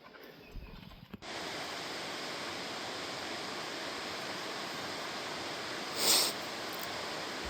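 Steady rushing of water from a stream or small waterfall, cutting in abruptly about a second in after near quiet, with one brief louder rush near the end.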